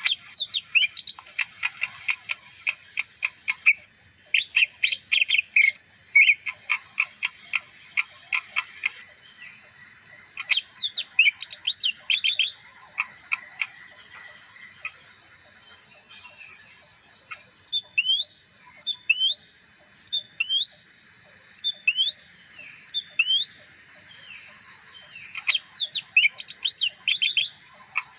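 Leafbird singing a long, varied song. It opens with fast runs of sharp clicking notes, then moves to chattering phrases, a series of rising whistled chirps, and a last quick run, with short pauses between sections.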